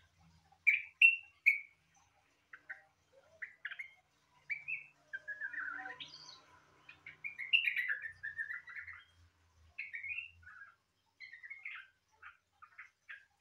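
Yellow-vented bulbul (trucukan) singing: a string of short chirps and whistled notes, with a longer run of warbling in the middle. It is the varied song that its keeper likens to a greater green leafbird's (cucak ijo).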